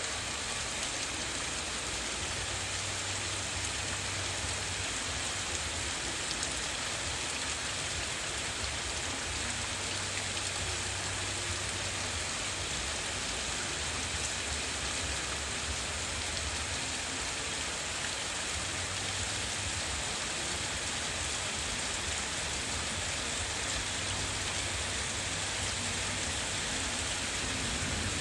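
Heavy rain falling steadily in a strong thunderstorm, a dense even hiss of drops on surfaces. A low rumble comes and goes underneath.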